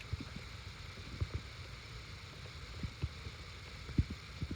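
Several soft low knocks and handling sounds as a 6 mm Allen wrench works loose the bolt holding an ignition coil, the strongest about four seconds in, over a steady low rumble.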